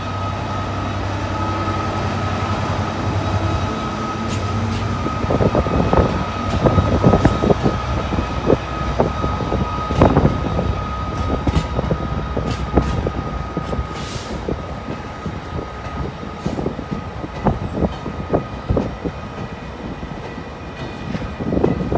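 A GB Railfreight Class 66 diesel locomotive's EMD two-stroke V12 engine running as it passes, followed from about five seconds in by its freight wagons rattling and clunking over the rail joints. A steady high whine runs underneath.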